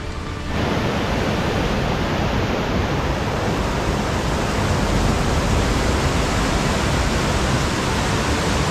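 Steady, loud rushing of water cascading through a rocky mountain gorge, coming in suddenly about half a second in as the background music cuts away.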